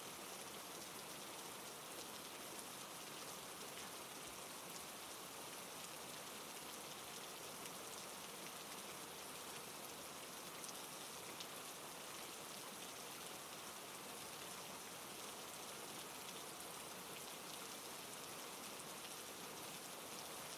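Steady rain falling, a soft even hiss dotted with the fine patter of drops.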